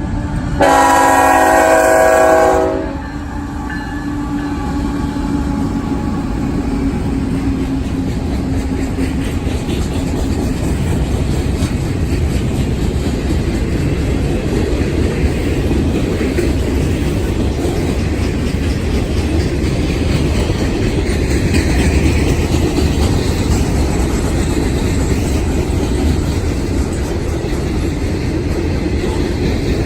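A mixed freight train's locomotive horn sounds one loud blast of several tones, lasting about two seconds and starting about half a second in. The train then rolls past steadily, its wheels clacking on the rails.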